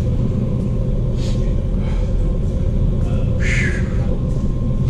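Steady low rumble with a faint constant high tone. Two short hissy rustles come through, about a second in and again about three and a half seconds in.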